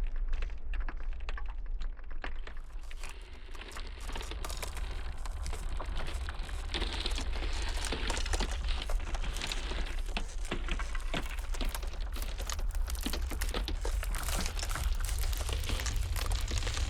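Ice crackling and snapping in a dense, irregular patter of small sharp cracks over a steady low wind rumble.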